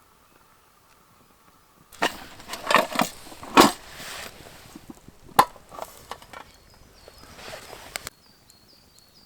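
Sharp knocks, clatter and scraping for about six seconds, cut off suddenly. Then a few short, high, falling chirps from a small bird.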